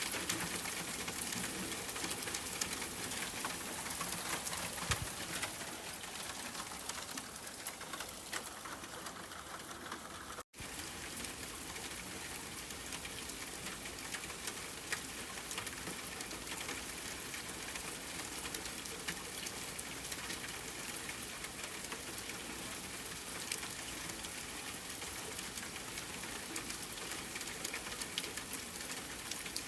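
Steady rain falling, a dense patter of many small drops. It drops out for a split second about ten seconds in.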